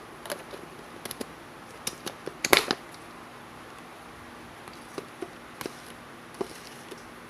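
Scattered light clicks and taps over a steady faint hiss, the loudest a quick cluster about two and a half seconds in.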